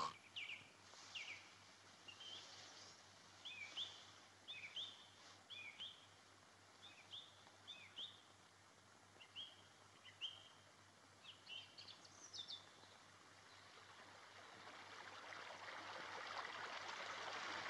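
Faint bird chirping on an old film soundtrack: short, high, quick chirps, some singly and some in pairs, over a steady hiss. About three-quarters of the way through the chirps stop and a rushing noise slowly swells.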